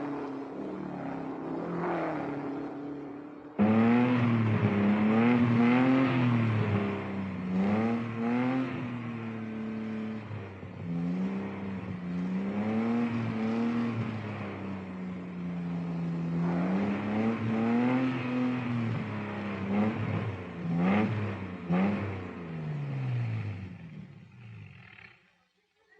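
Sports car engines revving up and falling back again and again through gear changes. The engine sound gets suddenly louder about three and a half seconds in and fades out near the end.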